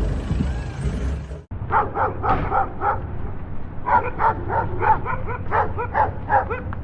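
Background music cuts off about a second and a half in, then a dog barks in a fast run of short barks, about three or four a second, with a brief pause in the middle.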